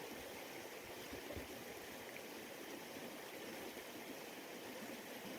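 Steady rushing of a small moorland stream (a burn) running over stones.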